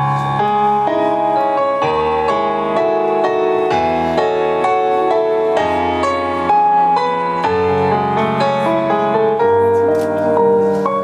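Piano playing the slow instrumental introduction to a song, with chords and melody notes changing every second or so.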